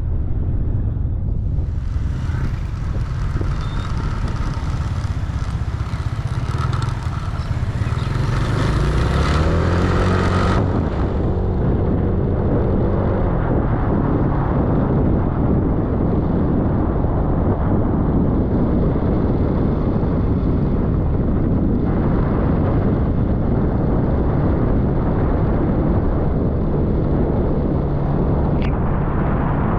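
Motor scooter engine running under way with wind rumbling on the microphone; the engine note climbs as it speeds up about a third of the way in, then holds steady. A single click near the end.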